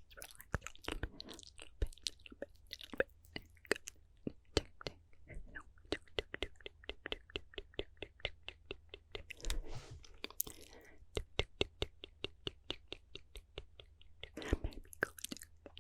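Close-miked ASMR mouth sounds: a rapid run of wet mouth clicks and lip smacks, several a second, with short breathy inaudible-whisper stretches about ten seconds in and near the end.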